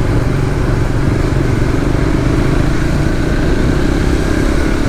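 Suzuki GSX-S150's single-cylinder engine running steadily while the bike is ridden, heard with a dense, low road-and-wind rumble.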